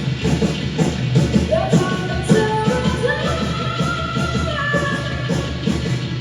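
Rock band playing with a singer, who holds long notes over a steady drum beat through the middle.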